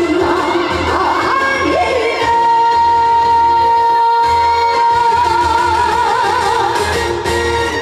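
Female trot singer with a live band, holding one long high note that breaks into a wide vibrato to close the song; the music stops near the end.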